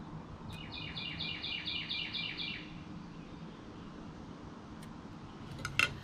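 A songbird singing a quick run of about eight repeated notes, about four a second, over a faint steady low hum. A few sharp clicks come near the end.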